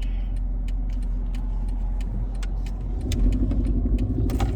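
Car cabin noise while driving: a steady low engine and road rumble that gets louder and rougher about three seconds in, with a few faint clicks.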